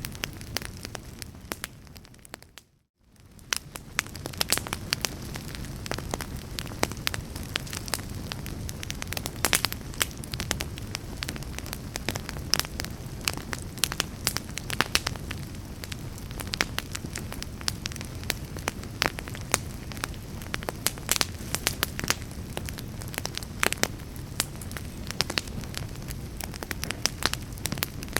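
Fireplace fire crackling: a steady low rush with many sharp, irregular pops and snaps. About two and a half seconds in the sound fades out to near silence, then fades back up a second later.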